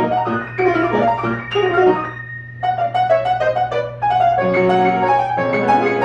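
Piano being played: a run of quick notes, a brief lull just over two seconds in, then fuller chords with low bass notes from about four and a half seconds on.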